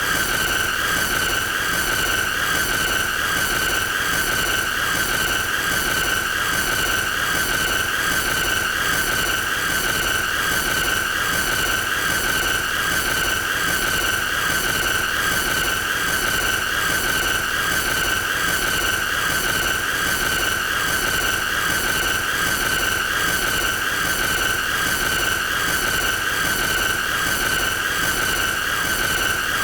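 A continuous shrill, high-pitched squealing tone, held at one steady pitch with a rapid regular flutter running through it: an annoying looped sound effect.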